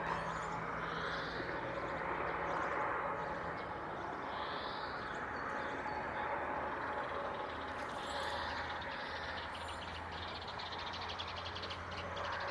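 Outdoor ambience: a steady rushing background noise with a low hum underneath, and three short high bird calls about three to four seconds apart.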